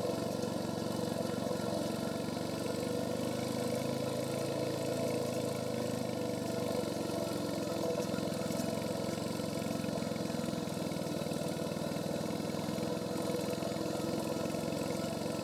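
Royal Enfield Hunter 350's single-cylinder engine running through its stock exhaust at a steady pace while riding.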